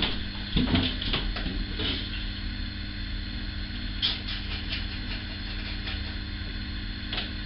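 Scattered light clicks and knocks of fragrance bottles being picked up and set down while someone searches through them, several in the first two seconds, more around the middle and one near the end, over a steady electrical hum.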